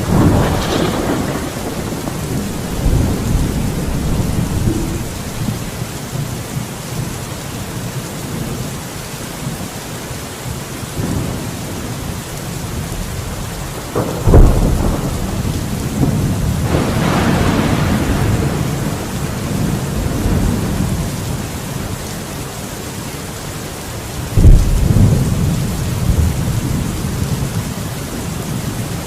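Steady rain with thunder: a rumble at the start, a sharp clap about halfway followed by a long rolling rumble, and another sharp clap near the end.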